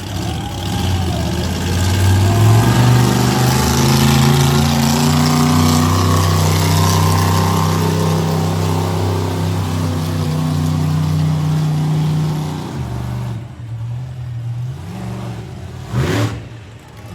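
Monster truck engine revving up about two seconds in and holding a steady high rev for about ten seconds, then dropping off. A quick rising rev comes near the end.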